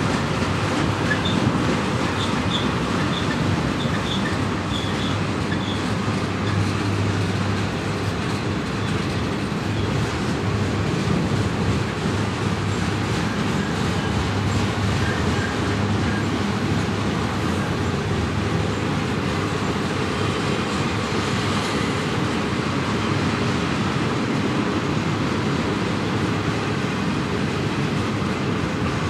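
Double-stack intermodal freight cars rolling past on a curve: a steady rumble and rattle of wheels on rail with clickety-clack, and a few short high wheel squeaks in the first several seconds.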